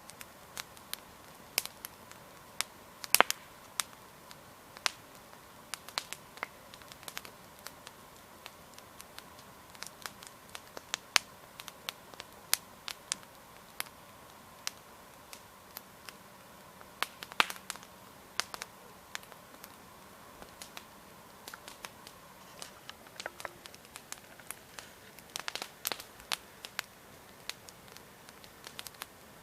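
Wood campfire crackling: burning logs giving irregular sharp pops and snaps over a faint steady hiss, with a quick run of pops near the end.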